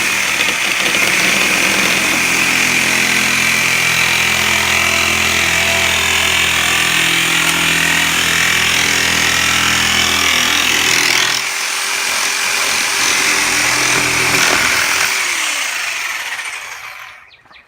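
Reciprocating saw (Sawzall) cutting the nailing fins off a new-construction window frame, running loud and continuously. Its tone changes about eleven seconds in, and it winds down and stops near the end.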